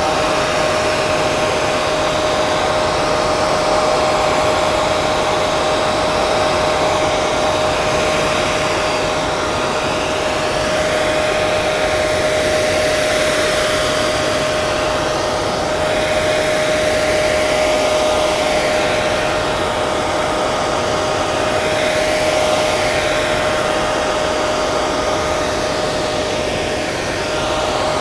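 Hair dryer running steadily: a rush of air with a constant motor hum pitched a little below 600 Hz, and a slow, gentle swirling in the hiss as the airflow shifts.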